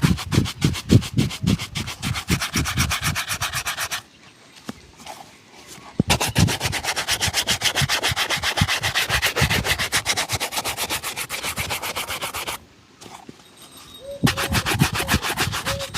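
A shoe being buffed with rapid back-and-forth shoe-shine strokes, about eight a second, in three runs broken by short pauses about four seconds in and about twelve and a half seconds in.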